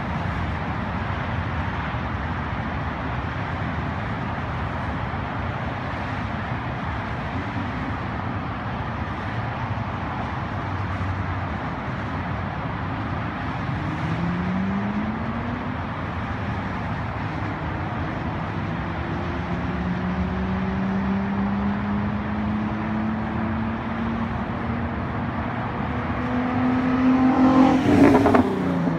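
Nissan 350Z's VQ35DE 3.5-litre V6 through a straight-piped exhaust with no muffler or resonator, driving along over steady road and wind noise. Its pitch rises briefly about halfway through, then climbs slowly through the second half and gets loud near the end as the car pulls harder.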